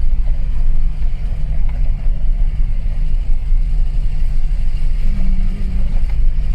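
Car driving along a rough unpaved track, heard from inside the cabin: a steady low rumble of engine and tyres on the dirt road.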